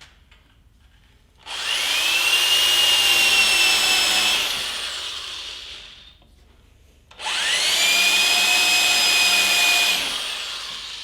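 Shopsmith spinning a small countersink bit as a drill press, run twice to countersink two pilot holes in wood. Each run has a high whine that rises as the motor spins up and falls as it coasts down.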